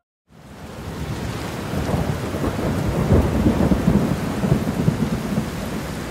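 Thunderstorm: steady rain with thunder rumbling, fading in after a brief silence and rumbling loudest around the middle.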